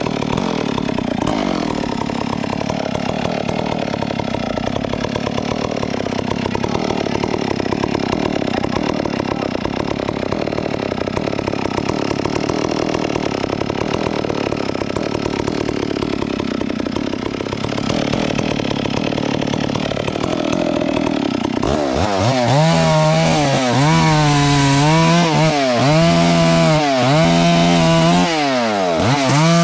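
Two-stroke chainsaw running at high revs, cutting wood. About 22 seconds in, the engine note turns louder and clearer, its pitch dipping and recovering every second or so as the chain loads and frees in the cut.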